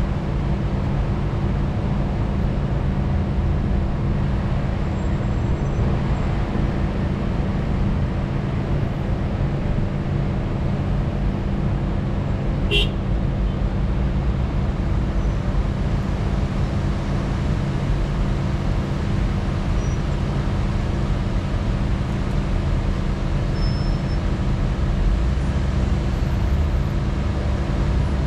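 A motor vehicle's engine running steadily with a continuous hum, and one short sharp click about halfway through.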